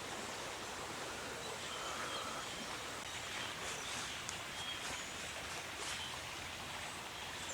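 Outdoor ambience: a steady, even rushing noise, with a few soft rustles and faint short high chirps now and then.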